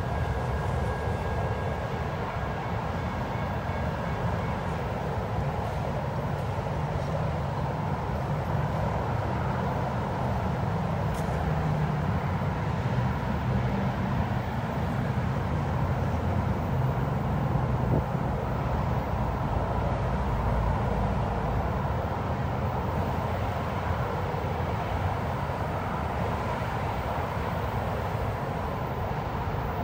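Amtrak bi-level passenger train moving away down the track: a steady low rumble that holds even throughout.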